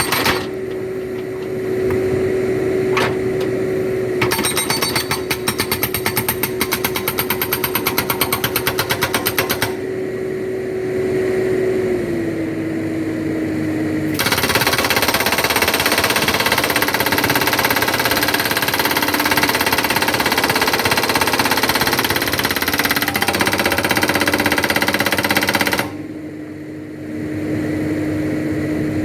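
Hydraulic rock breaker on a backhoe hammering rapidly in two spells, a shorter one and then a longer one of about twelve seconds, over the backhoe's engine running steadily. The engine's pitch drops slightly between the two spells.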